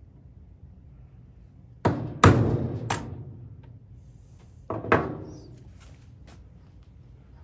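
Chisel being driven into an MDF disc to cut out a recess for a bolt head: a quick group of about three sharp knocks about two seconds in, then two more about five seconds in, followed by a few faint ticks.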